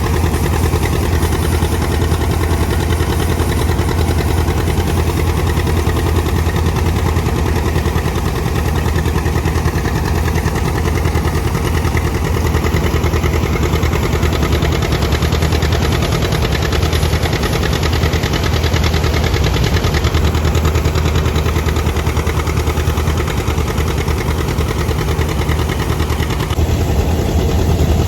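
Tractor engine running steadily at a constant speed with a low, even hum.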